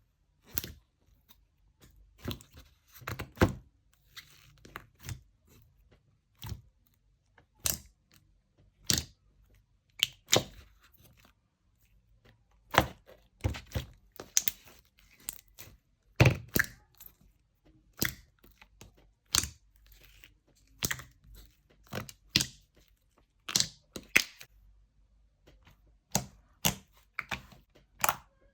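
Slime being pressed and squeezed by hand, giving a string of sharp crackling pops at irregular intervals, roughly a second apart and sometimes in quick clusters.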